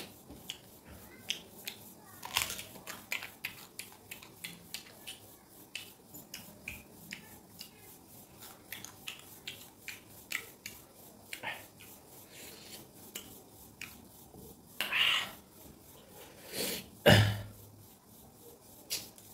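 Close-miked biting and chewing of a peeled unripe green mango: many small crisp clicks, with a few louder crunchy bites near the end.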